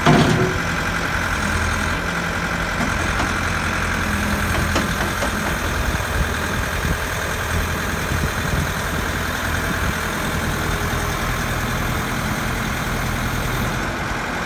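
Diesel engine of a JCB 3CX backhoe loader running steadily at idle, with a brief louder burst right at the start.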